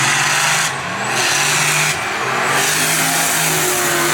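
Pontiac G8 and a truck running a drag pass at full throttle, engines revving hard, with two brief breaks in the sound about a second and two seconds in as they shift gears.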